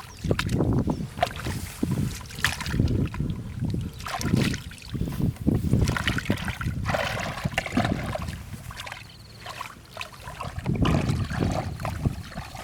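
Shallow muddy water sloshing and splashing in irregular bursts.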